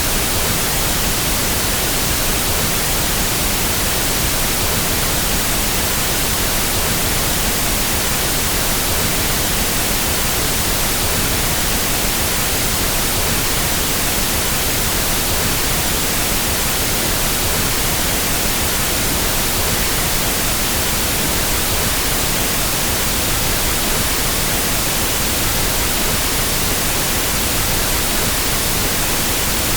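Pink noise test signal used to equalize sound systems: a steady, unbroken hiss across the whole frequency range.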